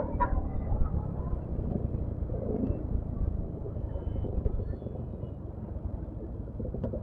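Yamaha XMAX scooter being ridden, its engine and the road noise making a steady low rumble, with a brief click at the very start.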